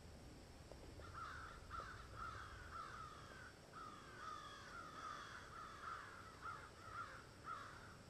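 Faint ambient recording of birds calling over and over: a run of short, falling calls, several a second, starting about a second in. A low rumble lies under it and fades out around three seconds in.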